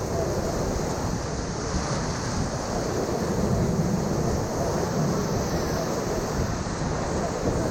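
Ocoee River whitewater rushing steadily, with wind buffeting the microphone.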